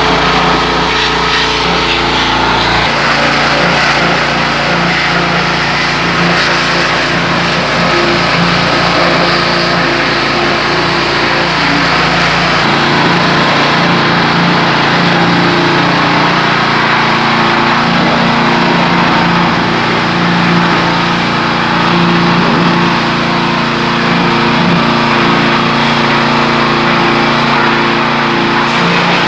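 Pressure washer running steadily: a motor hum under a broad hiss. Its lowest hum drops away about three seconds in and again near the middle.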